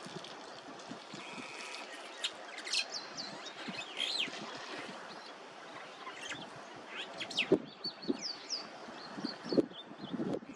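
Small birds chirping in many short, quick, rising and falling calls over a steady outdoor hiss. A few sharp knocks come about two-thirds of the way through and near the end.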